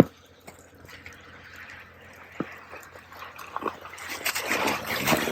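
Snow being scraped and pushed off a polytunnel's plastic cover with a garden hoe: a soft rushing scrape with a few light knocks, growing louder about four seconds in.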